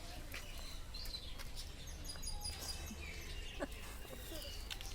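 Parrots chirping: short high chirps and quick whistled sweeps, one after another, over a low steady hum.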